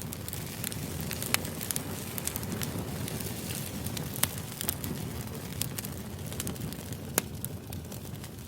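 White-noise ambience track: a steady low rumble with irregular sharp crackles and pops scattered through it.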